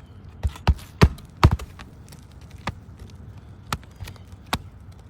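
A series of sharp knocks or taps at irregular intervals, the loudest cluster about a second in and fainter single knocks later.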